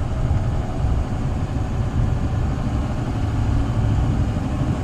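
Steady low rumble of a car's engine and road noise heard from inside the car's cabin in slow-moving traffic.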